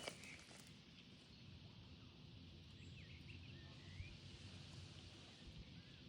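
Faint outdoor ambience: a few short bird chirps now and then over a low, steady rumble.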